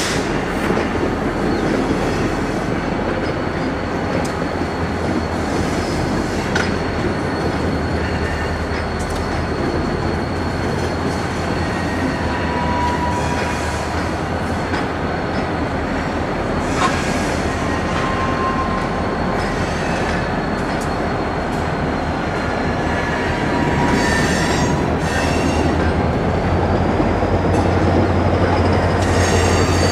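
Freight train pulled by diesel locomotives, rolling slowly onto a bridge. A steady rumble carries a thin, high wheel squeal held for most of the time, and the rumble grows louder over the last few seconds.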